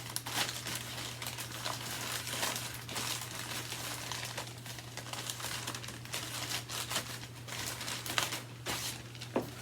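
Vacuum cleaner bags being handled and sorted, crinkling and rustling irregularly.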